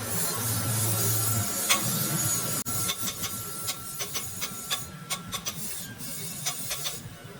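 Workshop tool noise: a steady hiss and scraping with a faint steady whine, and a run of sharp clicks in the second half.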